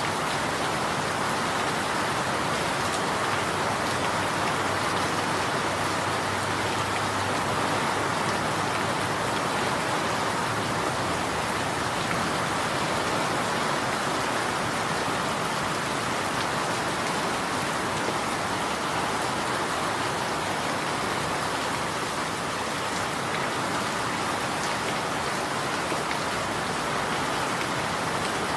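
Steady rain falling and pattering on surfaces, with faint scattered drop ticks.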